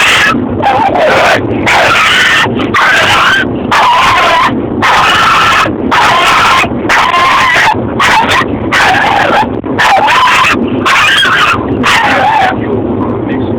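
Dog barking and yelping over and over, almost without a break, in loud pitched calls that rise and fall, inside a car.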